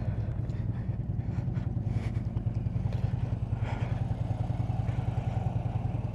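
Harley-Davidson V-twin engine idling with a steady, even low rumble.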